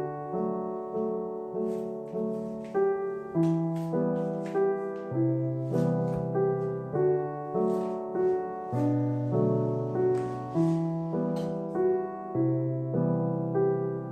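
Background music: a gentle piano melody with steady, evenly paced notes over sustained low chords.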